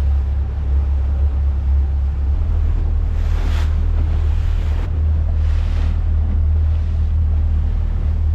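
Motor boat under way at low speed: a steady low engine drone, with water rushing past the hull and wind buffeting the microphone in gusts about three and five and a half seconds in.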